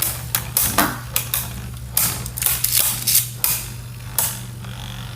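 Two Beyblade Burst tops, Spryzen Requiem and Revive Phoenix, spinning and clashing in a plastic stadium, with irregular sharp clacks as they collide.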